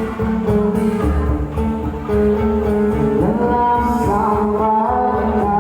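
Live band playing music without vocals: held chords over a steady bass, with notes sliding upward about three seconds in.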